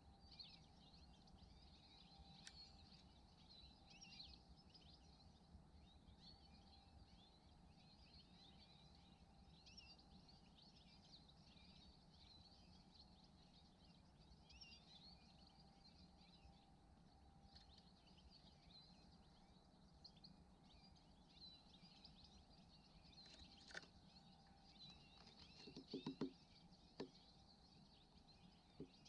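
Faint, continuous twittering and chirping of small songbirds, with a few sharp knocks near the end.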